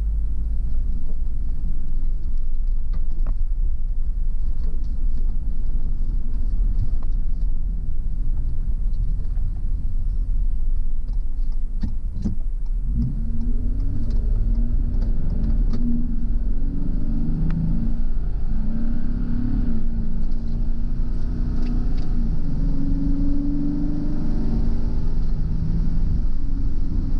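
A car driving, with a steady low road rumble. About halfway through an engine note comes in and keeps shifting in pitch as the car picks up speed.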